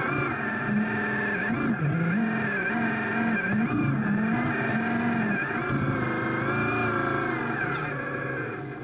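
Radio-controlled construction models running: a motor whine with several pitches that rise and fall repeatedly as the throttle and controls are worked, easing off near the end.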